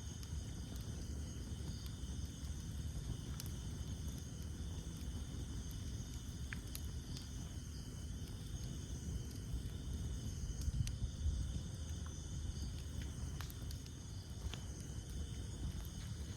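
Campfire burning: a low, steady rumble of flames with scattered sharp crackles and pops from the burning wood. Behind it is a steady, high-pitched chorus of night insects.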